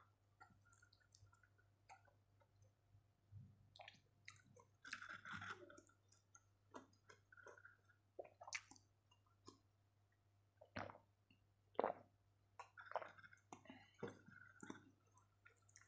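Faint chewing and wet mouth sounds of a person eating rice and fish by hand, with scattered clicks, a drink from a mug partway through, and a low steady hum underneath.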